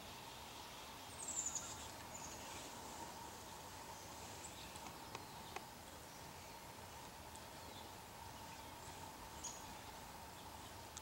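Faint, high-pitched chirps of small woodland birds: a quick cluster of falling chirps about a second in, then a few scattered single calls, over a steady faint hum and the hiss of the woods.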